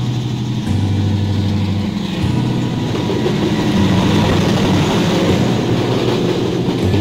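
Diesel locomotive passing close by on its way into the station, its engine growing louder as it goes past, then the train's wagons and coaches rolling by on the rails.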